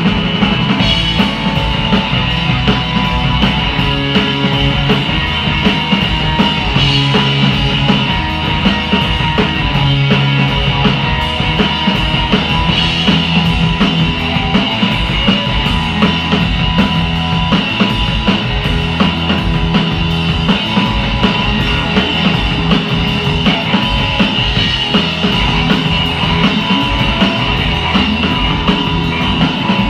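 A rock band playing live, with a steady drum beat running throughout and no pause.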